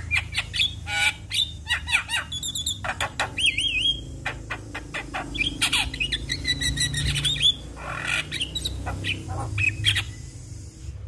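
Javan myna (jalak kebo) singing a fast, varied medley of sharp clicks, short whistles and harsh squawks, with curving whistled glides, over a steady low hum.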